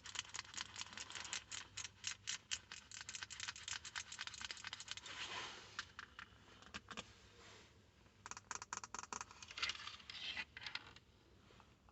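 Quick close-miked fingernail tapping and scratching on small hard objects: a dense run of rapid taps for about six seconds, a few scattered taps, then two shorter quick runs.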